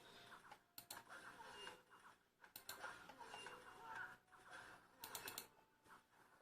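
Faint button clicks of a Marvo G932 Scorpion gaming mouse: a quick pair about a second in, another pair a little past halfway, and a fast run of four near the end, over a faint background wash.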